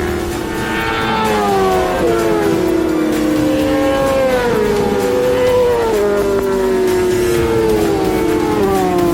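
Sportbike engine running hard on a race track, its pitch climbing and falling in long glides with sudden drops and jumps as the rider shifts gears and slows for corners.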